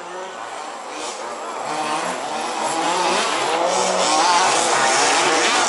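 Several 1/5-scale two-stroke petrol RC buggy engines revving up and down with a high buzz. They grow steadily louder over the first few seconds, then stay loud.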